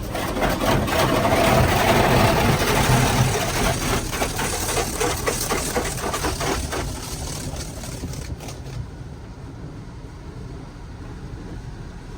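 HydroSpray in-bay automatic car wash spraying water onto the car, a loud hissing spray with rapid pulsing as the jets pass, easing to a quieter steady rumble about eight seconds in.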